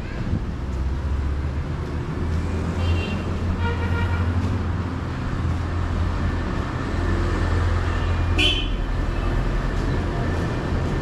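Road traffic: a steady low vehicle-engine rumble, with a few short high pitched tones about three, four and eight and a half seconds in.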